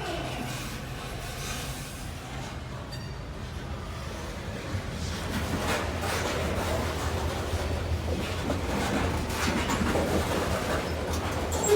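Diesel-hauled freight train rolling slowly over the rails, with a steady low engine hum and the clatter of wheels over track joints. It grows louder from about halfway through.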